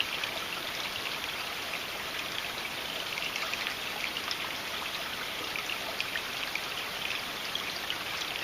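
Knife blade stroked lightly along a Smith's Arkansas stone, a series of soft scraping strokes made with almost no pressure to even up the edge on a Condor Bushlore, over a steady background hiss.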